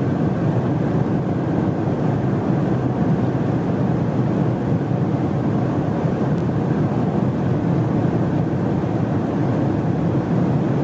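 Volkswagen Touareg with the 3.0-litre V6 driving at high speed: a steady low engine rumble mixed with tyre and wind noise, with no rise in pitch.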